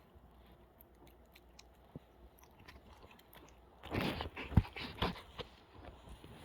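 Puppy chewing a rubber band: faint scattered clicks, then a run of louder chewing and biting clicks about four seconds in, lasting a second or two.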